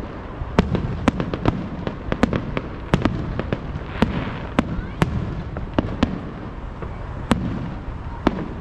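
Fireworks show: many sharp, irregularly spaced bangs and cracks over a continuous low rumble of bursting shells.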